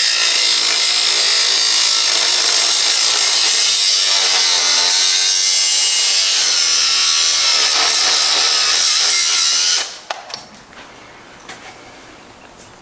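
A power tool cutting into the transmission's cast-aluminum case, running steadily and loudly for nearly ten seconds with the pitch wavering slightly under load, then shutting off abruptly. A few faint clicks follow.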